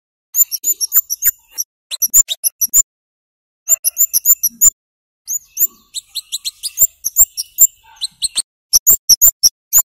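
Scarlet-headed flowerpecker giving rapid runs of sharp, very high 'cit' chirps, in clusters of about a second broken by short pauses.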